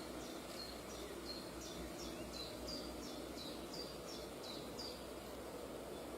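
A bird calling a quick series of short, high, downward-slurred notes, about three a second, which stops about five seconds in, over a steady low background hum.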